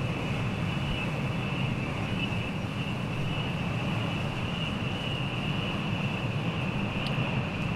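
Gale-force wind, around force 7 to 8, buffeting the microphone in a steady low rumble, with a steady high-pitched whine over it.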